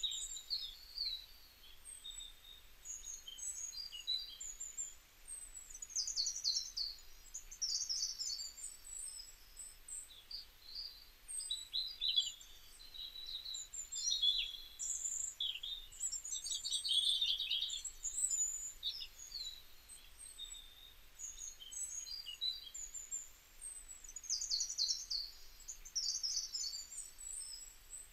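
Birds chirping and trilling, many short high calls overlapping continuously.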